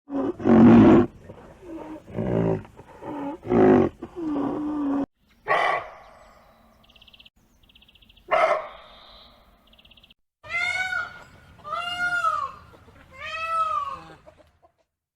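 A quick series of different animal calls: several low growls or roars in the first few seconds, two short cries in the middle with faint fast chirping between them, then three calls that each rise and fall in pitch near the end.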